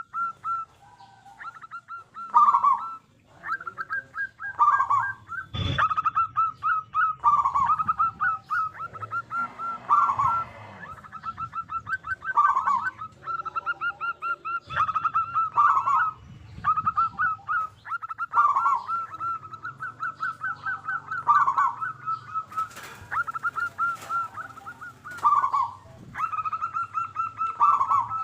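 Zebra dove (perkutut) singing its staccato cooing song, one rapid trilled phrase after another, about every two seconds. A single sharp click comes about six seconds in.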